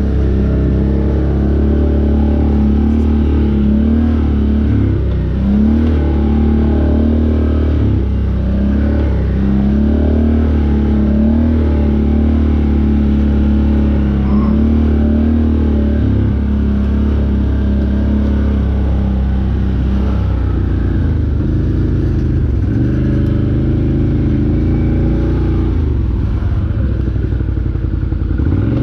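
Off-road vehicle engine running under load, its revs rising and falling again and again as the throttle changes, with some rattling.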